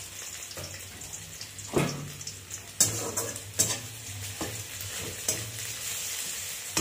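Chopped onions and whole spices sizzling in hot oil over a high flame in a large metal kadai, the onions already lightly browned. A metal ladle stirs and scrapes them, knocking sharply against the pan about five times.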